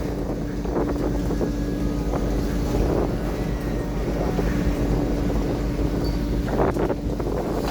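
Tuna fishing boat's engine running steadily with an even low hum, wind buffeting the microphone, and a couple of short knocks near the end.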